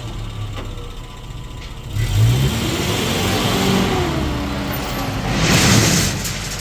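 A motor vehicle's engine revving up as it accelerates, its pitch rising about two seconds in, with a rushing hiss growing louder near the end.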